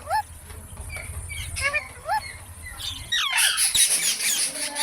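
Parrots calling: a few short rising chirps, then from about three seconds in, many overlapping squawks and chirps at once.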